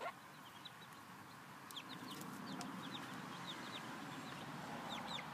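Chickens clucking faintly, with about a dozen short, high chirps that fall in pitch, scattered from about two seconds in.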